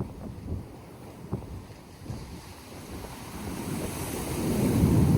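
Ocean surf with wind buffeting the microphone, a rough rushing rumble that swells louder near the end.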